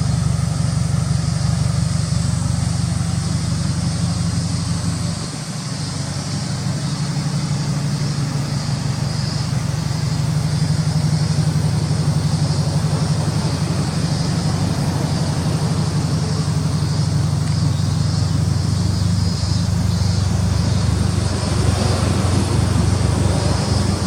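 GDB Impreza WRX STI's turbocharged 2.0 L flat-four idling steadily, with a deep, even exhaust note through an aftermarket Tomei exhaust manifold and GP Sports muffler.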